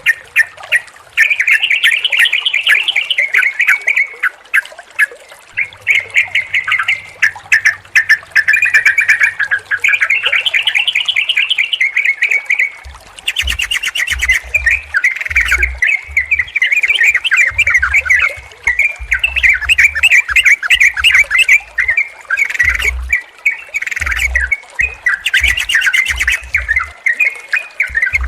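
Yellow-vented bulbuls (trucukan) chattering and singing without a break, quick bubbling phrases from several birds overlapping. From about halfway there are repeated short low bumps under the song.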